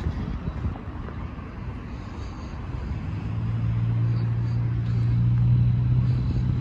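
Road traffic: a steady low engine hum comes in about three seconds in and grows louder, over a rough low rumble of traffic and wind on the microphone.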